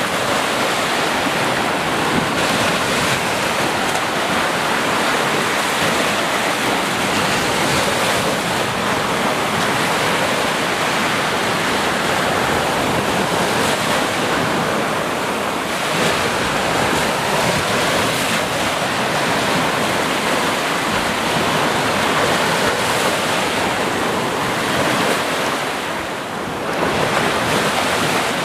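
Sea waves breaking and washing continuously in a dense, steady rush, with a brief lull near the end.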